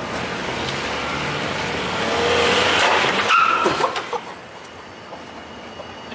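A car accelerating toward a jump, its engine and tyre noise rising, then a hard bang with grinding and scraping about three seconds in as the underside bottoms out and sparks against the ground; quieter running after.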